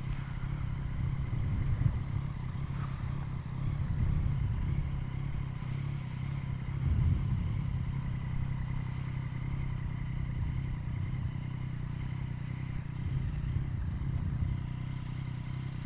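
Yamaha MT-09's three-cylinder engine running steadily at low revs through an Akrapovic carbon full exhaust, with a slight swell in revs about seven seconds in.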